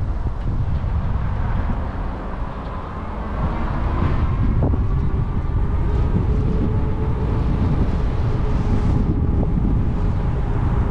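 Wind buffeting the camera microphone while riding an e-bike, a loud steady low rumble, with a faint steady whine from about four seconds in.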